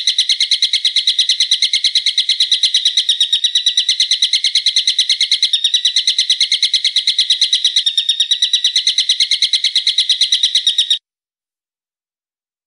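A small songbird's call played as a bird-training recording: one long, even trill of sharp, high notes at about eight a second, which cuts off suddenly near the end.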